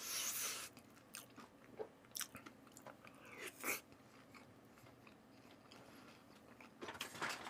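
A person chewing a mouthful of fried chicken close to the microphone: a short hiss at the start, then scattered crisp crunches over the first few seconds, quieter chewing after, and a few more crunches near the end.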